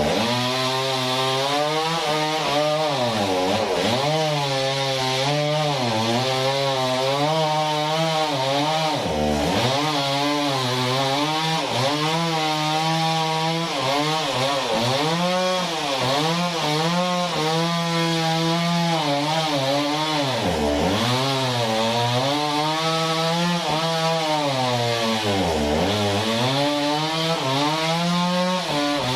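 Sawmill saw cutting through a large log, its motor running loud and steady with the pitch sagging and recovering about every five seconds as the cut loads it down.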